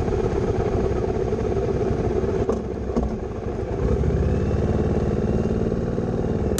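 Motorcycle engine running steadily, with a further steady engine note coming in about four seconds in.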